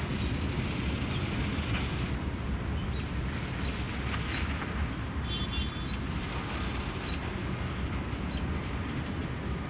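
Freight train's covered hopper cars rolling away, a steady low rumble, with a bird chirping about once a second over it.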